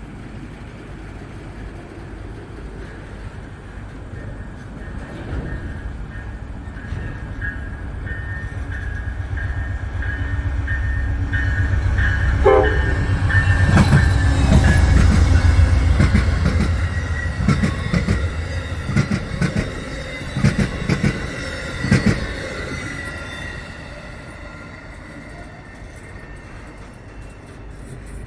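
O gauge model train running by on the track: a low rumble that swells to its loudest about halfway through and then fades away. A run of sharp clicks comes over the rail joints while it is loudest.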